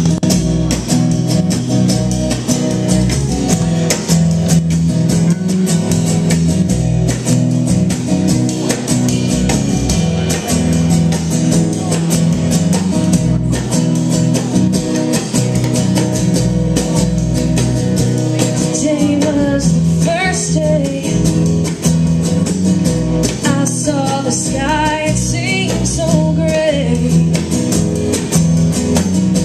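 A band playing the opening of a song, led by guitar over a steady bass line; a wavering melody line comes in about two-thirds of the way through.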